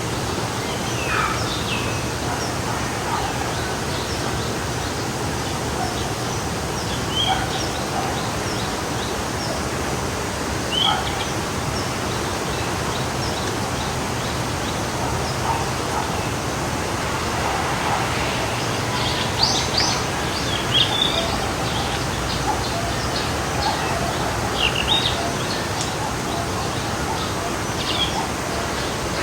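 Forest stream flowing steadily, with small songbirds chirping and calling over it now and then, most busily past the middle.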